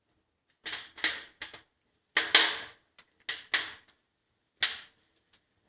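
A run of about nine sharp cracks and knocks, irregularly spaced, from the firebox of a Kratki Amelia fireplace insert during its first firing.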